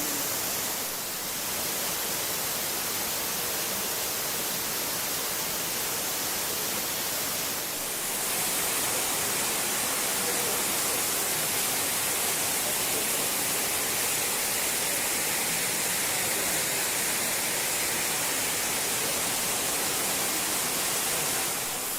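Elephant Falls waterfall rushing: a steady, even hiss of falling water, a little louder from about eight seconds in.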